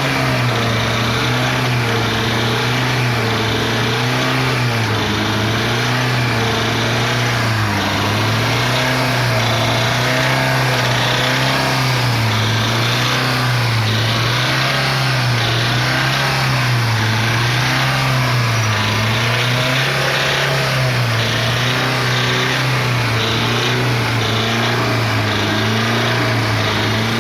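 Chevrolet Celta's 1.0 VHC-E four-cylinder engine running, its speed rising and falling every couple of seconds as it struggles to rev. Its internal noise is the sign of worn internal clearances, which the mechanic puts down to the connecting-rod and main bearings and the pistons.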